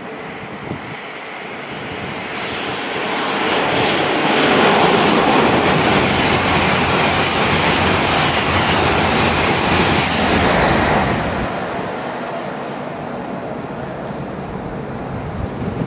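A train passing by: a rushing noise that builds over a couple of seconds, holds loud for about seven seconds, then fades away.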